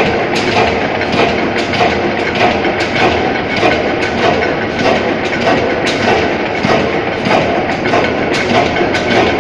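Bates & Scholes stationary oil engine running, with a clatter of knocks about twice a second.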